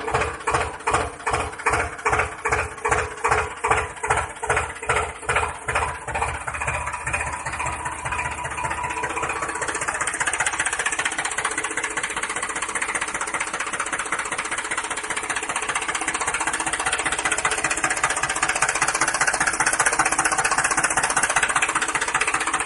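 Small motor of a DIY model tractor running, with regular knocking that speeds up over the first several seconds and merges into a steady buzz.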